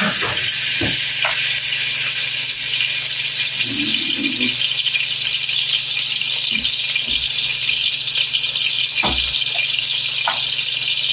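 Chicken breasts sizzling steadily as they fry in hot oil in a pan, with a few faint knocks of a utensil against the pan.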